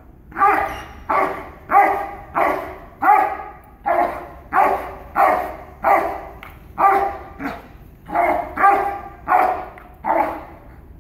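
A working dog on a leash barks repeatedly at a decoy in a bite jacket during bite-work training. The barks come in a steady run of about seventeen, a little under two a second.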